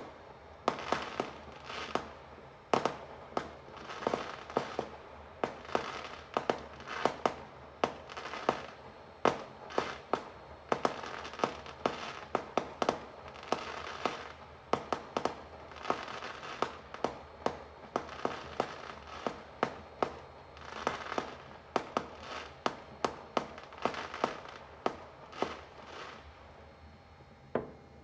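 Fireworks going off in quick succession: sharp bangs, often several a second, with crackling between them, thinning out near the end.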